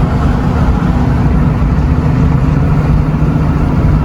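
Steady engine and road noise inside the cab of a moving pickup truck: a continuous low drone with a faint engine hum.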